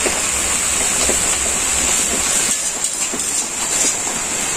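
Malabar spinach (pui shak) frying in a metal wok over a wood-fired clay stove: a steady sizzle, with a spatula stirring the greens.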